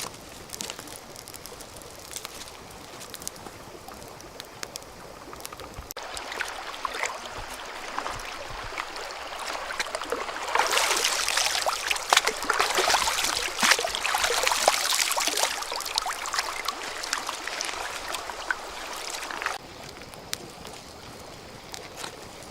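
Water splashing and trickling, with many small splashes. It grows louder after about six seconds, is at its loudest in the middle, then drops back suddenly.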